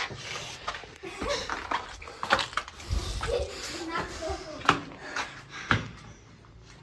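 Footsteps, scuffs and knocks on the rock floor of a low, small cave passage, with a few brief murmured voices in between.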